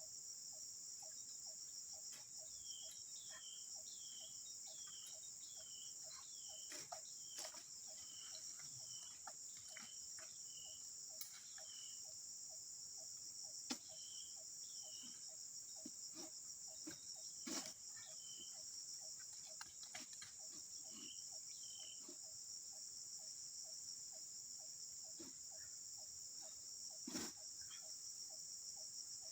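Steady high-pitched insect chorus with a fast, regular ticking call beneath it. A short falling call repeats about twice a second through the first two-thirds, and a few sharp knocks stand out, the loudest near the end.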